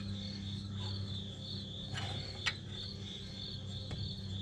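Crickets chirping steadily over a low, even electrical hum, with two light clicks about two seconds in.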